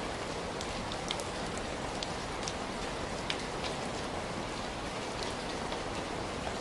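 Heavy rain falling steadily in a dense, even hiss, with scattered sharp drip ticks of individual drops standing out.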